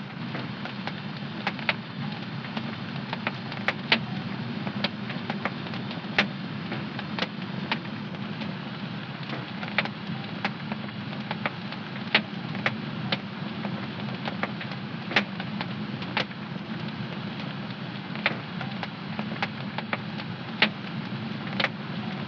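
Wood fire in a home fireplace crackling, with irregular sharp pops several times a second over a steady low rush of burning.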